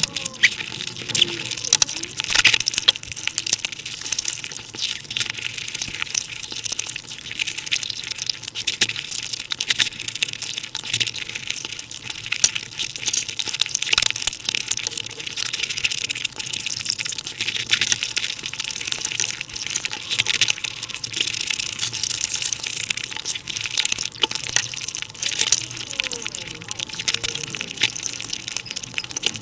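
Mukbang eating sounds played back at five times speed: wet chewing and smacking of luchi with curry run together into a rapid, dense crackle of clicks.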